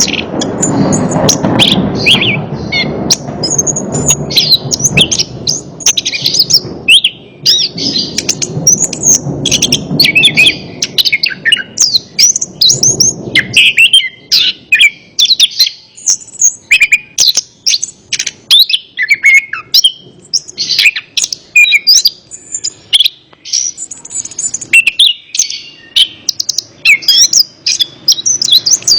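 Chestnut-capped thrush (anis kembang) singing continuously: a dense run of quick high chirps and whistled phrases. A low rushing noise sits under the song for about the first half.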